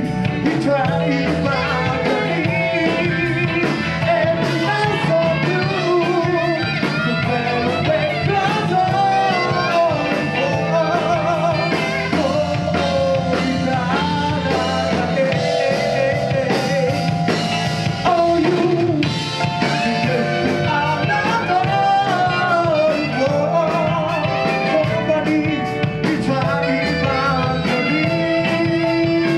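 A live band playing a rock song with singing, guitar and drum kit.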